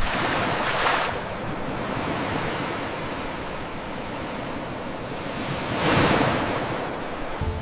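Sea waves washing and breaking, with louder surges of surf about a second in and again about six seconds in.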